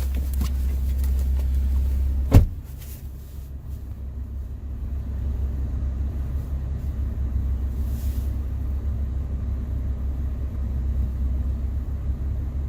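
Toyota Tacoma engine idling after a cold start through a Magnaflow round muffler with no tailpipe, a steady low exhaust drone. About two seconds in a door shuts with a sharp bang, and after it the idle is heard quieter and muffled from inside the cab.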